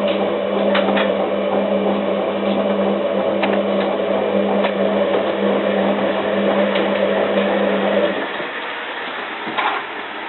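Hotpoint 9534A washing machine running with a steady electrical hum, which cuts out abruptly about eight seconds in, leaving a quieter background.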